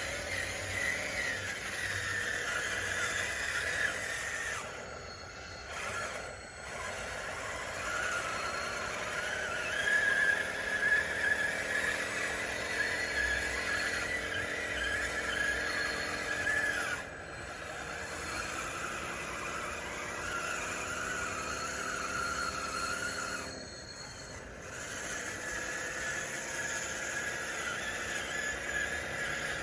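Radio-controlled DXR2 hydraulic model bulldozer running, a whine whose pitch glides up and down as it works, cutting out briefly a few times.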